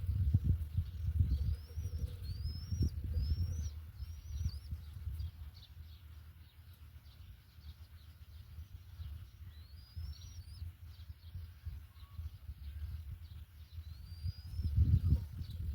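Bird calling: short, high, rising chirps, four in quick succession early on and then single ones spaced apart, over a low rumbling noise that swells at the start and again near the end.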